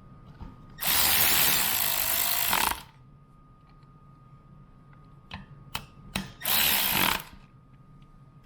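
A power drill/driver runs twice: once for about two seconds, then a shorter run of under a second near the end, with a few sharp handling clicks between.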